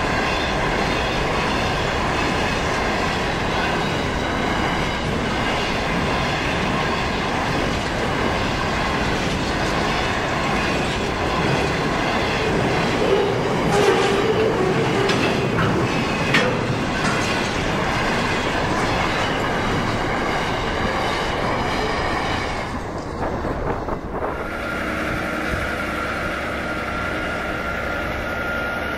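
Loaded freight train wagons rolling past: steel wheels clacking over the rail joints with a steady rumble and a high ringing squeal from the wheels. About twenty-four seconds in it gives way to a steadier engine idling.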